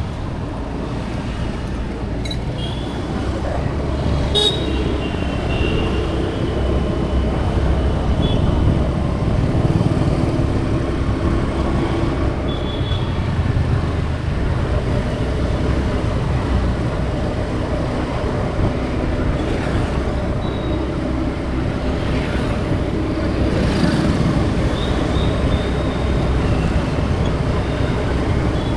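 Road traffic noise: a steady rumble of vehicles, with horns tooting several times.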